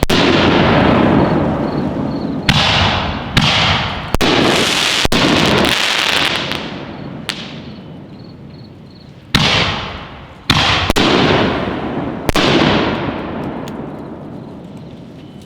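Dominator 5-inch canister aerial shells bursting overhead: about seven loud booms over the span, some in quick pairs, each followed by a long rolling echo that fades away.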